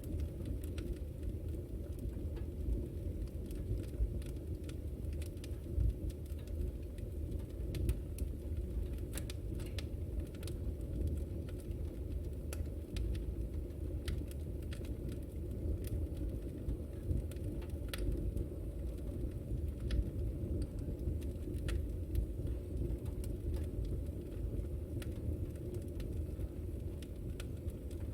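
Wood fire in a fireplace crackling: scattered sharp pops and snaps, irregularly spaced, over a steady low rumble of the flames.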